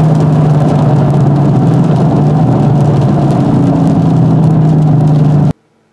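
Dodge Challenger SRT8 392's 6.4-litre Hemi V8 with Flowmaster exhaust, heard from inside the cabin, running at a steady cruise around 3,000 rpm; a second, higher engine tone joins a little past halfway, and the sound cuts off suddenly near the end.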